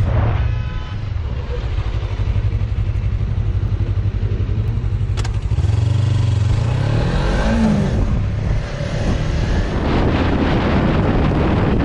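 Motorcycle engine running steady, revving up about six seconds in and dropping back again shortly after.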